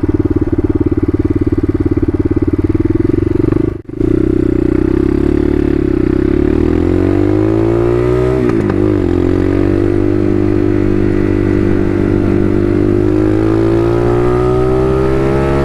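Bashan Motomax 250 supermoto's single-cylinder engine running at a steady speed, with a momentary break in the sound about four seconds in. It then revs up with a rising note, drops briefly at a gear change about halfway through, and settles into a steady cruise with the pitch slowly climbing.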